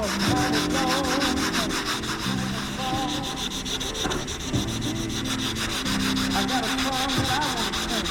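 Sandpaper on a hand sanding block rubbing back and forth over cured body filler on a car door. This is 180-grit block sanding to level the filler, with quick, even strokes.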